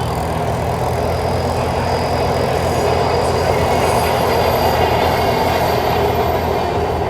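A loud car engine and exhaust, a deep steady rumble that swells slowly as the car drives past, loudest about two-thirds of the way through.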